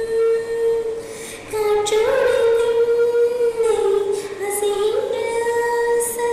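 A woman singing a slow melody in long held notes that glide from one pitch to the next, with little accompaniment.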